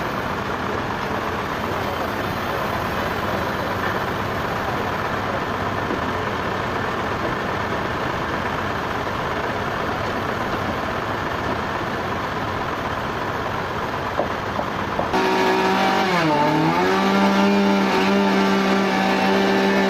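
Sawmill machinery running: a dense, steady mechanical noise, then about fifteen seconds in an abrupt change to a motor's steady hum, whose pitch dips briefly and recovers.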